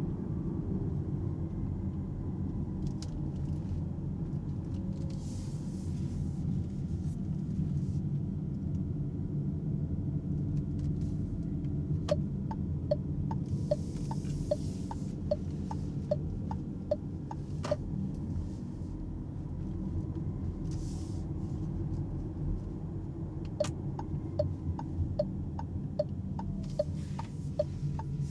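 Steady low road and tyre rumble inside the cabin of an Alpine A390 electric car on the move. From about halfway through, a turn indicator ticks evenly about twice a second for several seconds, stops, then starts again near the end.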